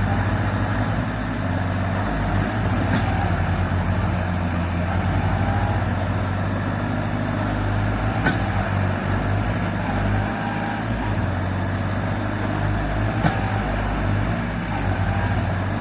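Tractor diesel engine running steadily, with three sharp clicks about five seconds apart.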